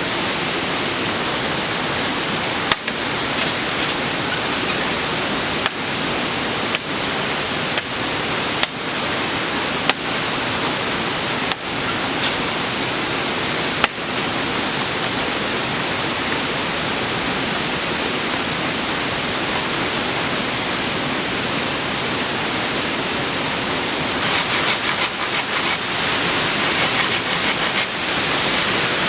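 Waterfall: a steady rush of falling water. A few sharp knocks stand out over the first half, and a flurry of quick clicks comes near the end.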